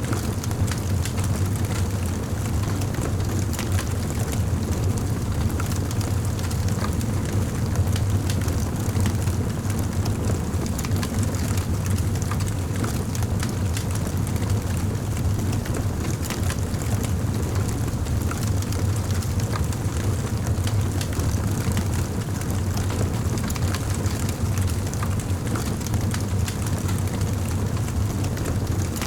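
Wood fire in a fireplace crackling: many small pops and snaps scattered over a steady low rumble of flames.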